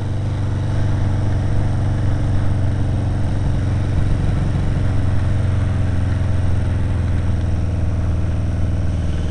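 Kawasaki KZ750 motorcycle engine running steadily at an even speed: a constant low drone whose pitch barely changes, with a steady hiss over it.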